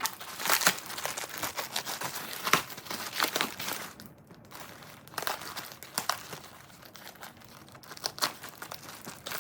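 Plastic packaging bags crinkling and taped wrapping being torn as a pressure washer spray gun is unwrapped, with irregular crackles and a brief lull about four seconds in.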